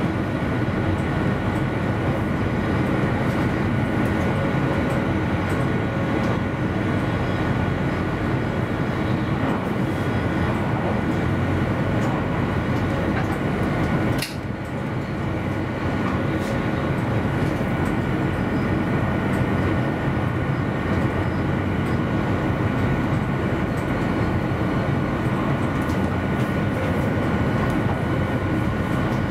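Passenger train running along the line, heard from inside the driver's cab: a steady rumble and hiss with a faint constant whine. About halfway through there is one sharp click and the noise dips briefly.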